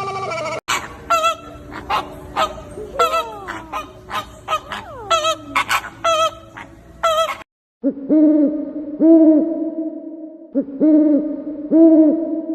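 Owl hooting in repeated groups of a few hoots, from about eight seconds in. Before it comes a quick series of short, pitched animal calls, some sliding downward.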